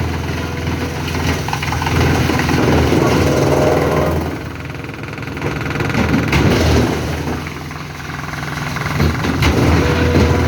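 Industrial forestry wood chipper running under load, its engine note dipping and swelling as logs are fed in. Cracking knocks about six and nine seconds in as the knives split the wood.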